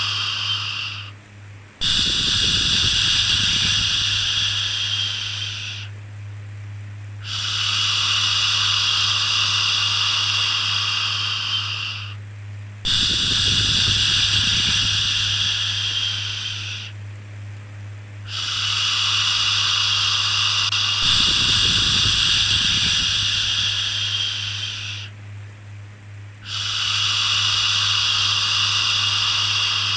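A voice making long, steady "shhh" shushing sounds, repeated about every five to six seconds with short breaks for breath, as soothing white noise. A steady low hum runs underneath.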